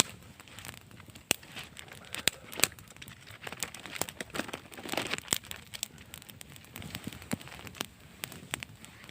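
Wood fire crackling, with sharp irregular pops and snaps.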